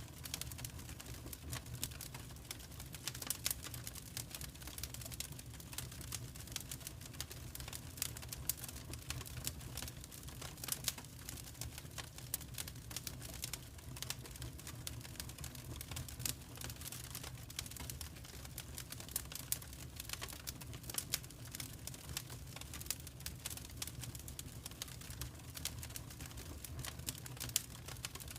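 Wood fire burning in a fireplace, crackling steadily with many small, irregular sharp pops over a low steady rumble.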